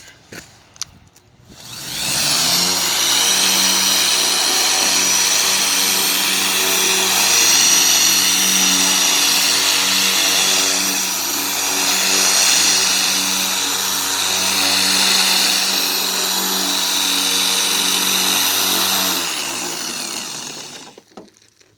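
Electric car polisher (buffer) running, taking wax off the paint: it spins up about two seconds in, runs steadily with a hum and a high whine, and winds down near the end.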